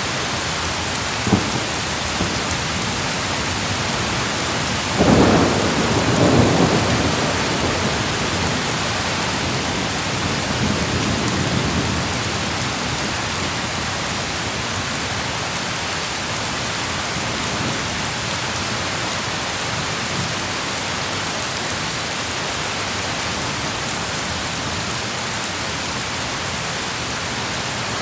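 Thunderstorm: steady heavy rain, with a roll of thunder about five seconds in that fades over a couple of seconds and a fainter rumble a few seconds later.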